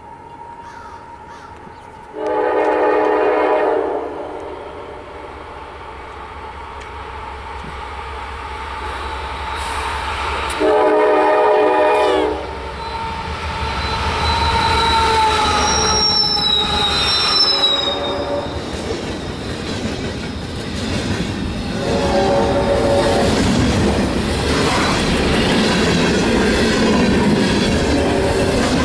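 Locomotive air horn sounding two long blasts, a short one and a long one, the grade-crossing signal. A train runs past at the same time, getting louder, with brief high wheel squeal in the middle.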